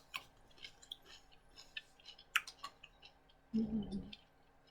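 Close-up eating sounds: soft chewing and small mouth clicks and smacks, with a short low hum of voice about three and a half seconds in.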